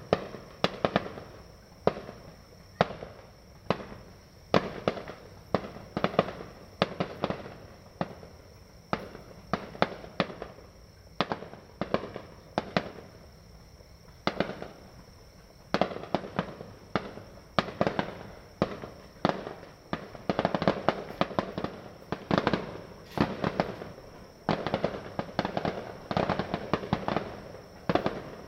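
New Year fireworks bursting one after another: sharp bangs about one or two a second, each trailing off, thickening into dense overlapping volleys in the second half.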